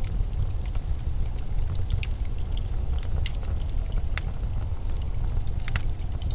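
Steady low rumble of blizzard wind, with scattered sharp crackles and clicks over it at irregular moments.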